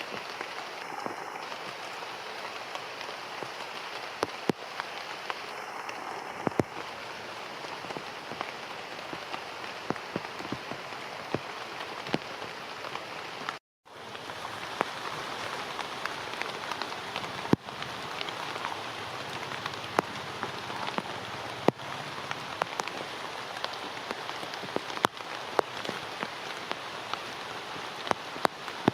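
Steady rain falling, with many sharp drops striking nearby surfaces. The sound cuts out completely for a split second about halfway through.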